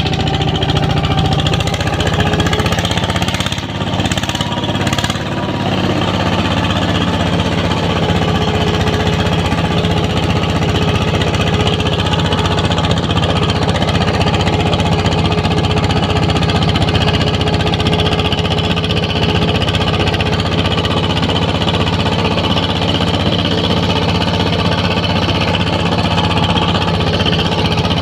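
ZT 155 tractor's diesel engine running steadily with a rapid knocking chug, dipping briefly about four seconds in.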